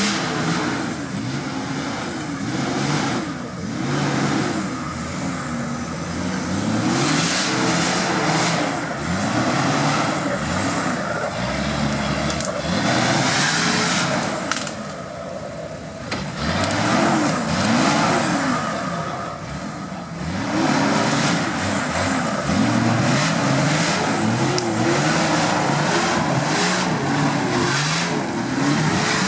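Off-road vehicle's engine revving up and down over and over, its pitch rising and falling every second or two, with no steady idle between.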